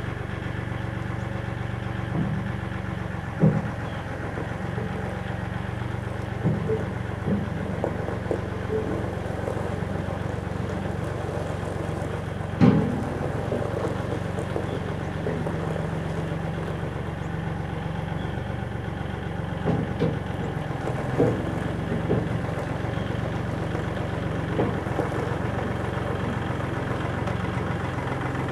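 Old Chevrolet flatbed truck's engine idling steadily, with a few short sharp clunks over it, the loudest about three and a half and about twelve and a half seconds in.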